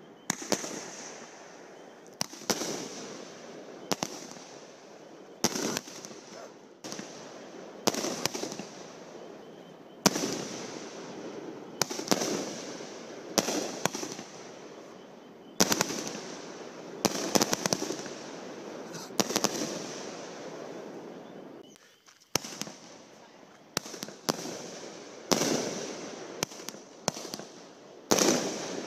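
Consumer aerial fireworks (firework cakes) firing a string of shots that burst in the air. There is a sharp report every second or two, each followed by a fading rush of noise, with a brief lull about three-quarters of the way through before the firing resumes.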